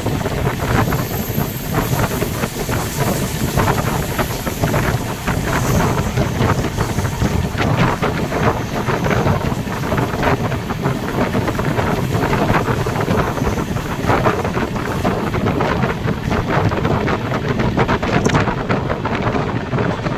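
Wind rushing over the microphone against the steady running rumble of a passenger train moving at speed.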